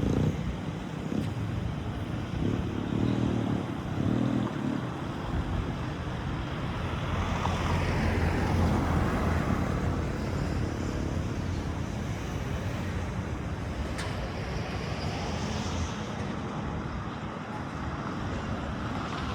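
Street traffic ambience: the steady hum of passing road vehicles, with one vehicle swelling past about eight to nine seconds in and a smaller one near the end.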